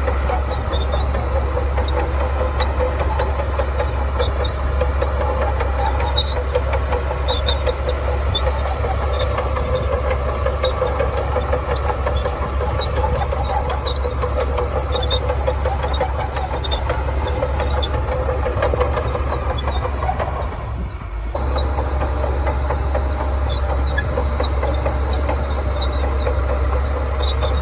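Shantui bulldozer's diesel engine running steadily under work, with a heavy low rumble. The sound dips briefly about three-quarters of the way through, then carries on the same.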